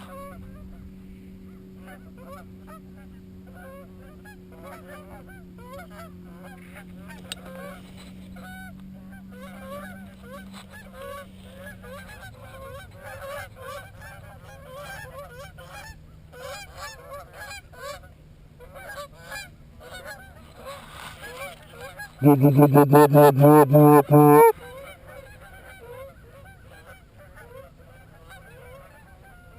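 A flock of geese honking and chattering at a distance throughout. From about 22 to 24.5 seconds, a loud, fast run of honks and clucks close by is blown on a hunter's goose call to bring the birds in.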